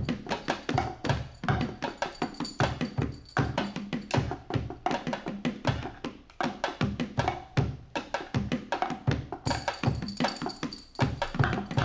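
Instrumental band music: busy, rapid drumming over sustained droning tones from the guitars and bass.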